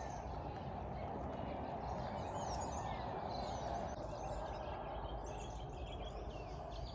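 Wild birds chirping and calling in short repeated notes over a steady outdoor background hiss.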